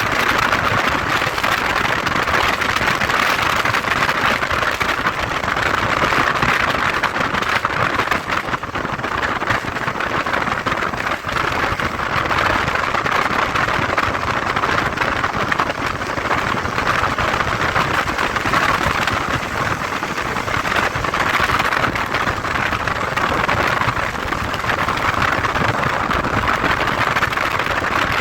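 Motorcycle on the move: a steady rush of wind and road noise with the engine underneath, swelling and easing every few seconds.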